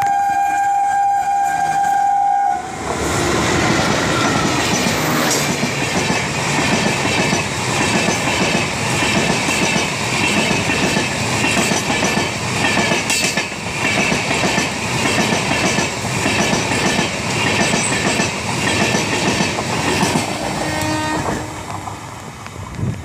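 A WAP4 electric locomotive's horn sounds one steady, long blast that stops about two and a half seconds in. Then the train of LHB coaches passes close at speed: a loud rush with the wheels clattering rhythmically, fading away near the end as the last coach goes by.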